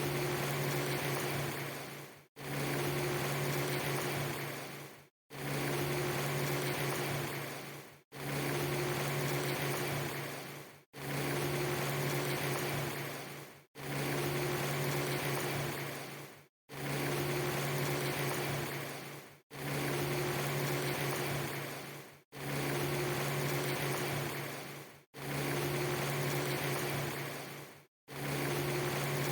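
Steady hiss with a low hum under it, a short snippet looped about every three seconds: each pass fades down and drops into a brief moment of silence before the same sound starts again, about ten times.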